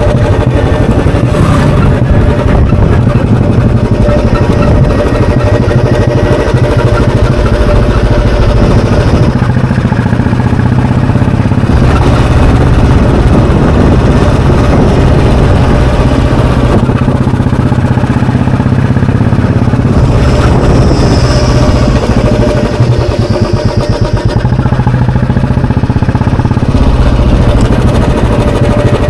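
Air-cooled 346 cc single-cylinder four-stroke engine and exhaust of a 2021 Royal Enfield Bullet Standard 350, running loudly under way. The engine note rises and falls several times as the throttle is opened and eased off.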